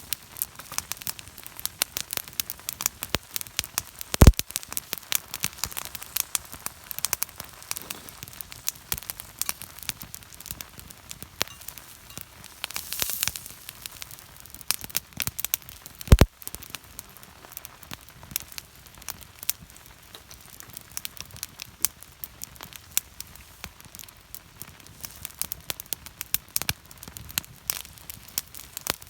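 Wood campfire crackling with many small irregular snaps, and two louder pops, about four seconds in and about sixteen seconds in.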